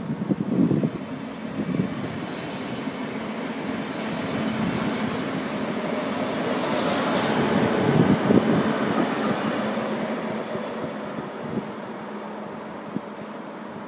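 ČD class 471 CityElefant double-deck electric unit passing close by: steady rolling noise with a few sharp thumps near the start, swelling to its loudest about eight seconds in, then fading as the train moves away.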